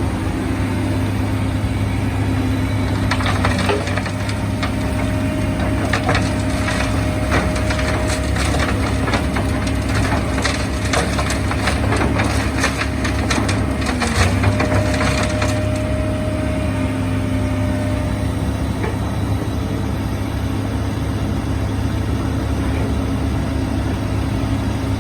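A heavy machine's engine running steadily, its pitch dipping briefly a few times as it takes load. From about 3 to 16 seconds there is a dense crunching and rattling, like soil and stones being scooped or poured while filling large sandbags.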